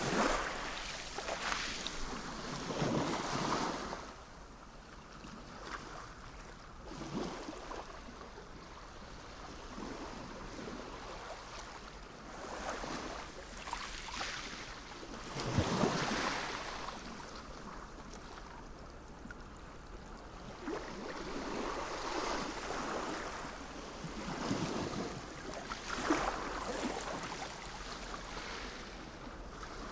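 Sea waves breaking and washing in, in repeated surges a few seconds apart, the biggest about halfway through.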